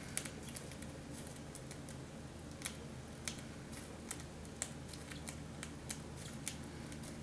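Scattered light clicks and ticks at uneven intervals, over a steady low hum.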